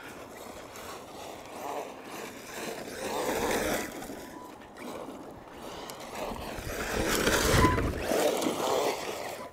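Brushless Arrma Mojave RC short course truck driving over loose dirt some way off, its motor and tyres rising and fading, loudest about three seconds in and again about seven to eight seconds in.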